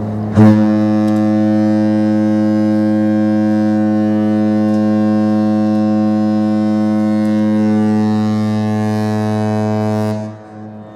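Cruise ship's horn sounding one long, steady low blast that cuts off about ten seconds in.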